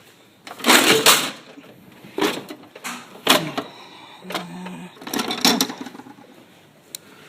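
Metal hand tools clattering and scraping in a series of short, sharp bursts, as of tools being rummaged and handled on a workbench.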